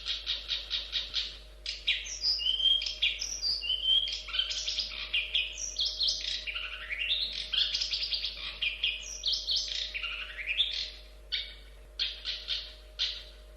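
Long-tailed shrike singing. It opens with a quick run of repeated chirps, moves into a rapid, varied song of whistles, trills and rising and falling notes, and near the end breaks into a few short spaced calls.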